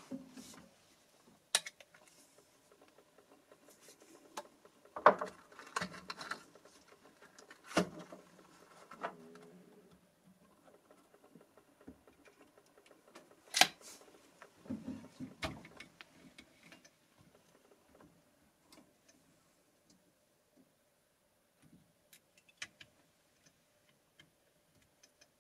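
Scattered mechanical clicks and clacks from handling a Pedersoli Black Widow .22 LR rifle on the bench as it is readied to fire, with two sharp, louder clacks about five seconds in and about halfway through, and a short run of small knocks just after.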